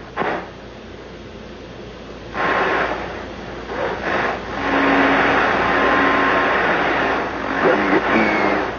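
CB radio static with no voice: a short burst of hiss, then about two seconds in a loud, steady rushing hiss with faint steady whistle tones, as when a station keys up its transmitter without speaking.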